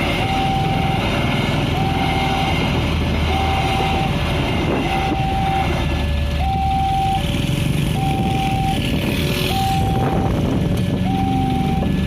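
Railway level-crossing warning alarm, an electronic 'Alarm Indonesia' siren: a high tone alternating with a slightly lower one about once a second, over a steady low rumble of passing traffic or train.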